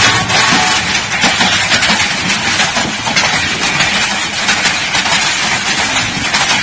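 A passenger train passing at speed: a steady rush of wheel-and-rail noise with many fine clicks. The tail of a train horn fades out in the first second.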